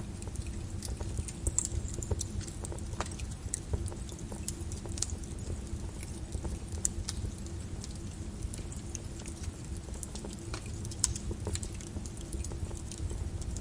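Lava crackling and popping with irregular sharp cracks over a steady low rumble.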